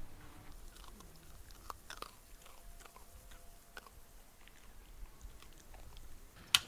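Scattered faint crunches and clicks, with one sharp click near the end.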